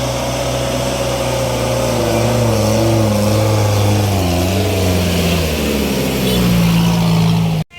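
A car engine running hard under load while climbing. Its pitch wavers and dips about halfway through, then holds steady and higher, before the sound cuts off abruptly near the end.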